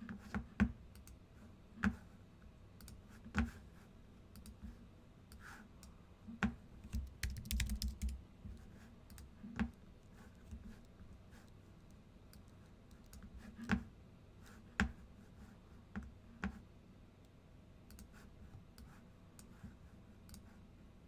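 Scattered clicks of keys being pressed on a computer keyboard, with a short run of quicker clicking about seven seconds in.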